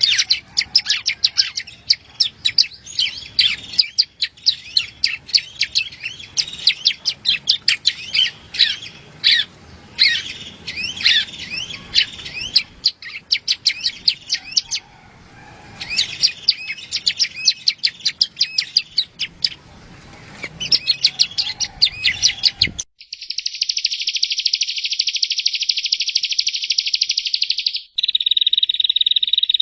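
Yellow-bellied prinia (prenjak rowo) song: fast, high chirping phrases with short pauses. About two-thirds of the way through, it cuts abruptly to a continuous high buzzing trill, which shifts lower and narrower near the end.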